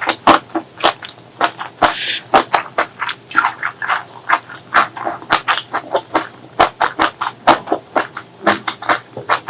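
Close-miked wet chewing and mouth smacking of someone eating curry and grilled pork, a quick run of sharp moist clicks about two to three a second.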